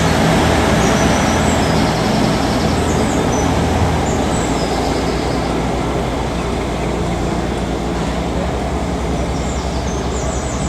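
Train running past on the line, a steady rush of wheel and engine noise whose low engine hum fades about four seconds in as the whole sound slowly dies away. Birds chirp faintly above it.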